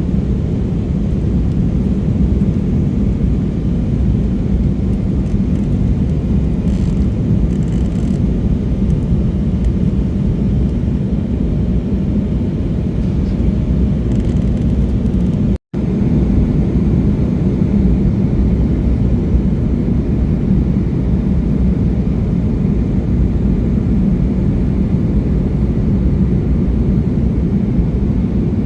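Steady low rumble inside the cabin of an Embraer E175 airliner in flight, from its two turbofan engines and the air rushing past the fuselage. It is broken once by a split-second dropout a little past halfway.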